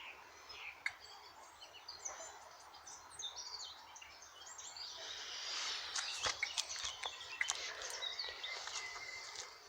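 Several birds singing and chirping over outdoor background noise, which swells about halfway through, with a few sharp clicks.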